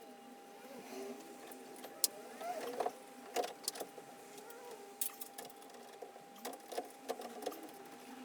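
Scattered metallic clinks and knocks of hand tools and parts while an exhaust manifold is fitted and bolted onto a VW VR6 engine, over a faint steady hum.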